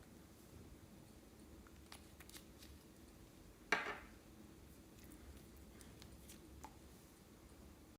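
Scissors snipping and handling plastic piping bags, quiet overall. There are a few light clicks and one louder, short, sharp snip about four seconds in.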